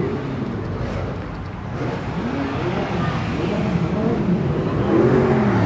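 A car engine revved in several quick blips, each rising and falling in pitch, the last and loudest near the end.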